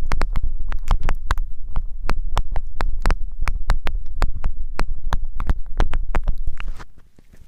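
Close-miked ASMR contact sounds: hands working right at the microphone, giving irregular crackling taps, several a second, over a low rumble. The sound stops abruptly about seven seconds in.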